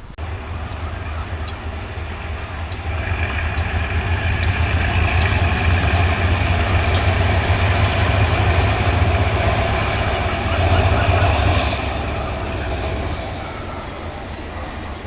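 Diesel train engine running close by, a heavy low rumble with a whine above it. It grows louder over the first few seconds and then fades after about twelve seconds, as a diesel unit passing.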